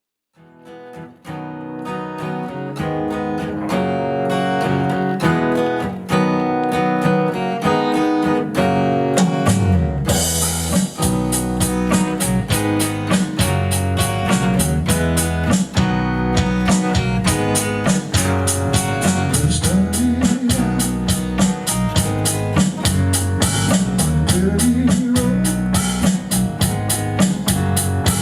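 Acoustic trio playing an instrumental groove: an acoustic guitar fades in and plays alone, then drums and a heavier low end come in about ten seconds in.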